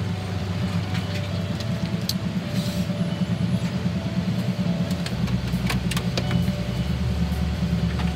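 Steady low rumble of an Amtrak passenger train heard inside a sleeper-car bedroom, with scattered sharp clicks and rattles. A deeper hum joins about five seconds in.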